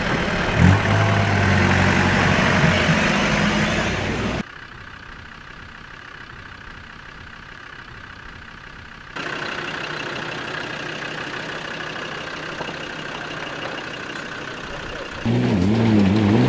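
Off-road 4x4 engines running and idling across several edited segments, with a quieter stretch in the middle. Near the end a loud engine revs up and down.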